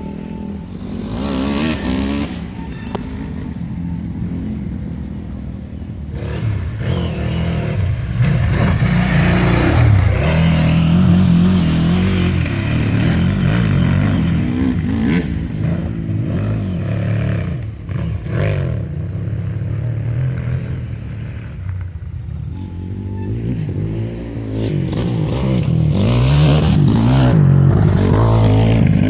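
KTM 950 Adventure's V-twin engine, ridden hard with the revs rising and falling again and again through the throttle and gear changes.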